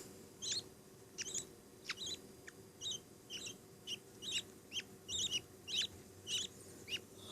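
Budgerigar chicks chirping: a steady run of short, high chirps, about two a second.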